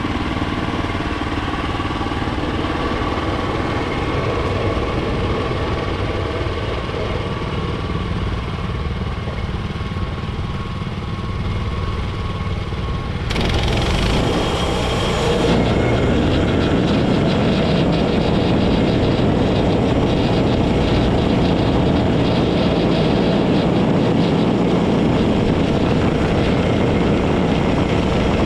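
Woodland Mills HM126 portable band sawmill running, its gasoline engine driving the band blade through a white oak cant. About halfway through the sound gets louder and fuller, with a brief hiss, and then holds steady.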